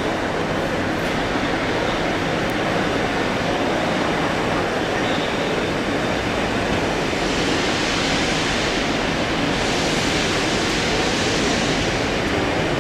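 A train of coaches rolling slowly through a station, with a steady rumble of wheels on track. A hiss comes up about seven seconds in and fades near the end.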